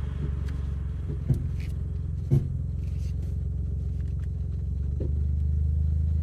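Suzuki Jimny on the move: a steady low engine and road drone, with a few sharp knocks in the first two and a half seconds and another about five seconds in. The drone grows a little louder about five seconds in.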